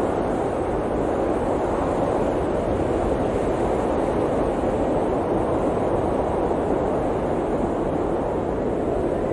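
Blizzard wind blowing steadily on a mountain, a dense rushing noise that swells and eases a little without pause.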